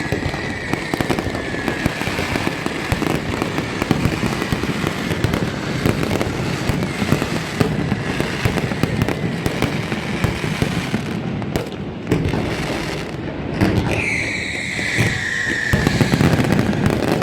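Fireworks display: dense, continuous crackling and bangs of bursting shells. A whistle falling slowly in pitch sounds at the start and again about 14 seconds in.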